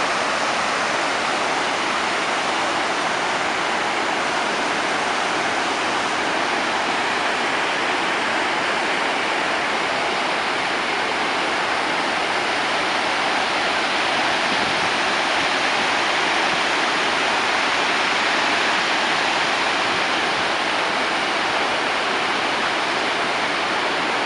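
Water rushing over a dam spillway: a steady, loud roar with no change.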